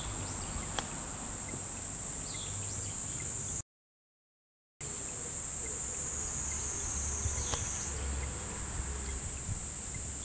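Steady high-pitched insect chorus, with two sharp clicks. The sound cuts out completely for about a second a few seconds in.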